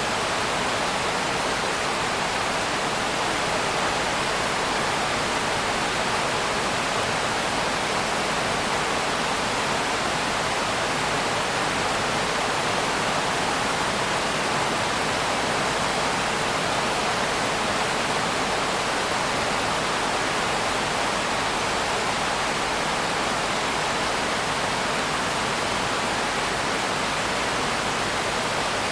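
Steady rain sound for sleep, an even, unbroken hiss with no single drops or other events standing out.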